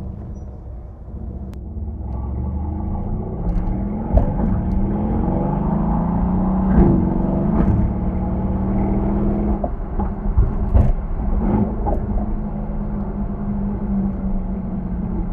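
Mercedes-AMG C63 S (W205) twin-turbo V8 on its stock exhaust, pulling under acceleration: the engine note climbs for several seconds, drops at a gear change, then settles into a steady drone. A few short, sharp knocks come past the middle.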